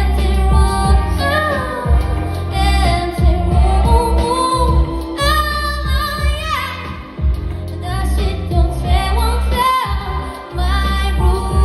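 Live pop song: a female singer's voice carries a gliding melody over accompaniment with a steady low drum and bass beat.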